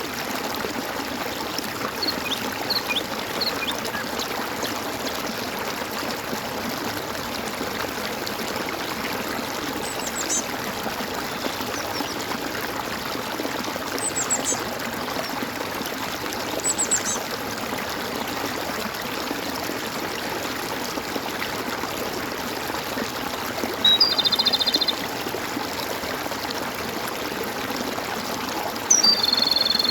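Steady gurgling of running water, with birds calling over it: a few brief high chirps scattered through, and two louder calls of about a second each near the end.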